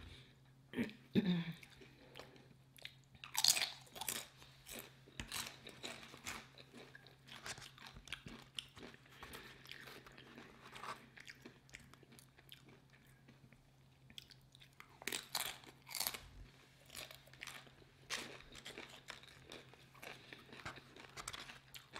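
Close-up crunching and chewing of tortilla chips, in irregular clusters of sharp crackles, over a faint steady low hum.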